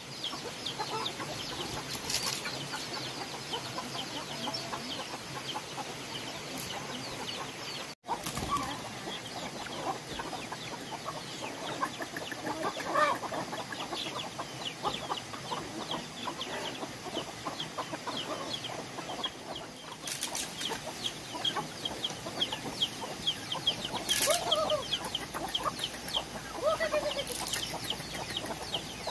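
A crowd of ducklings peeping continuously, many short high chirps overlapping, with a few lower calls now and then.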